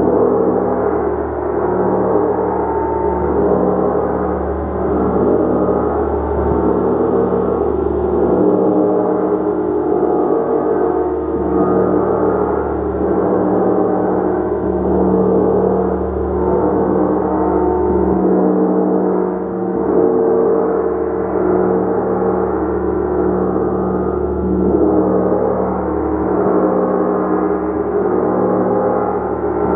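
Gong ringing continuously in a dense, steady wash of many overlapping tones, slowly pulsing in strength, with no distinct separate strikes.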